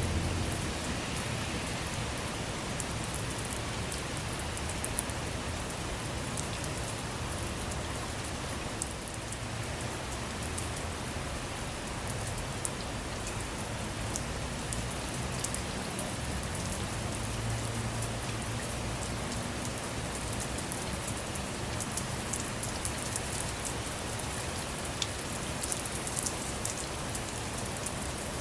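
Steady rain falling outside a car, an even hiss of rain dotted with many sharp ticks of single drops striking close by.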